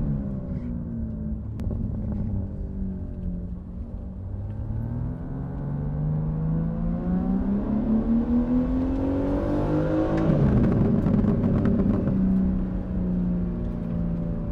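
BMW G80 M3 Competition's twin-turbo 3.0-litre inline-six through its stock exhaust under acceleration: the revs fall for the first few seconds, then climb steadily in a pull. About ten seconds in they drop abruptly, and the engine then runs at a steady pitch.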